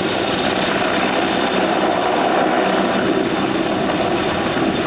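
An aircraft's engine running with a steady drone, without a break.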